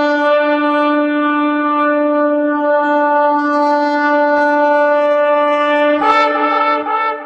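Shofar (ram's horn) sounding one long, steady blast, which breaks into a higher, wavering tone about six seconds in.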